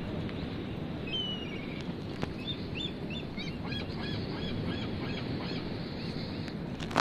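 Steady low noise of wind and surf, with a bird calling over it: a short falling whistle about a second in, then a quick run of about eight short repeated calls. A couple of sharp clicks come at the very end.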